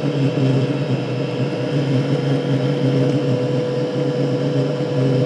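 Diesel air heater running on petrol, its combustion fan and burner making a steady, even hum with a constant tone. The burn is continuous and stable rather than whomping and erratic, the sign that the modification has improved how it burns petrol.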